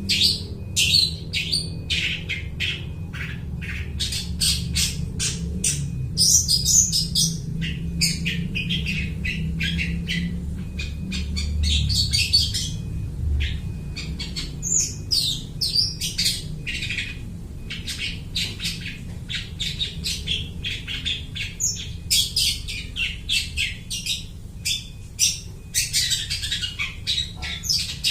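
Long-tailed shrike (cendet) singing energetically in fast runs of short, harsh, squawky notes and chirps, mimicking the calls of other birds, over a steady low hum.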